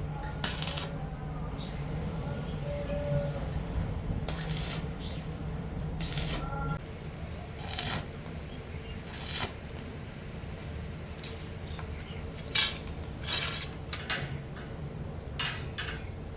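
Sharp metallic clinks and knocks of tools and parts being handled, about ten of them spread irregularly, over a low steady hum that stops about seven seconds in.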